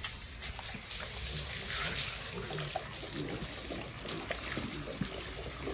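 Water from a hose splashing and trickling over a sow as she is washed.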